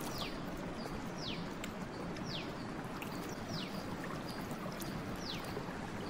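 A bird repeats a short, quickly falling whistle about once a second, with short high notes between. Under it runs a steady rush of flowing water.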